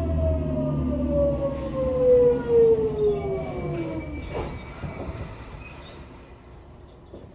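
Sotetsu 8000 series electric train's Hitachi GTO VVVF inverter whining in several stacked tones that fall steadily in pitch as the train slows, then cutting off about four seconds in. Quieter rolling and brake noise follows.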